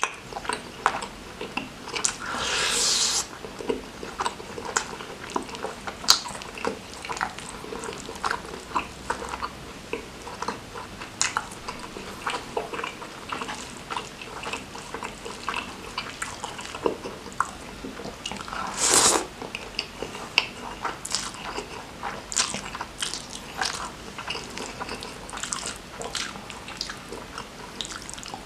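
Close-miked chewing and mouth sounds of a person eating rice and beef rendang by hand: many short wet smacks and clicks, with two louder breathy hisses, one about two seconds in and one about two-thirds of the way through.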